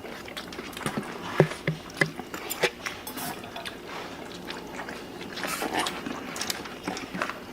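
People chewing and eating close to the microphone: irregular wet mouth clicks and smacks, with occasional sharper clicks.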